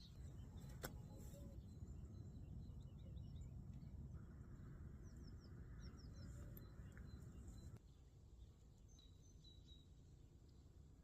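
Faint outdoor ambience: birds chirping in the distance, short high chirps in quick runs around the middle and a few more near the end, over a low rumble that drops away about eight seconds in. A single sharp click about a second in.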